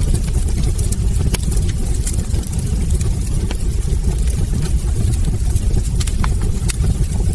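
Wood fire burning in a fireplace: a steady low rumble of flames under frequent, irregular sharp crackles and pops from the logs.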